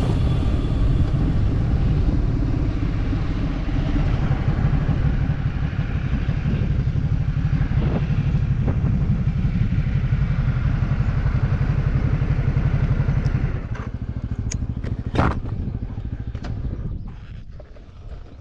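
Motorcycle engine running as the bike rides along. Near the end the engine note drops away and fades as the bike slows, with one sharp click partway through the fade.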